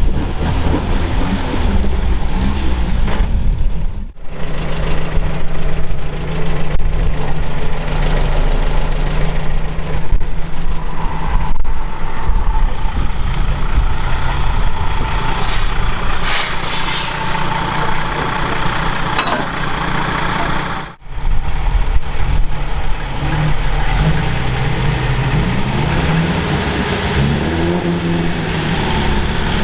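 Diesel engine of a MAN 8.136 truck running and working, its pitch rising and falling, with a short hiss of air about 16 seconds in. The sound breaks off sharply twice.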